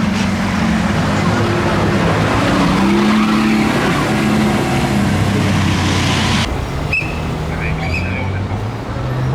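A Lamborghini's engine running loud as the car pulls away, its pitch rising and falling with the revs. The loud roar cuts off abruptly about six and a half seconds in, leaving a quieter, steady engine note with voices over it.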